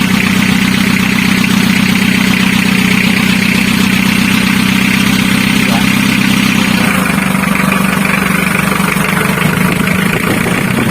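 Mitsubishi L300's four-cylinder diesel engine running steadily at idle on its first run after a rebuild with a rebored block and oversize pistons and rings. Its sound shifts about seven seconds in.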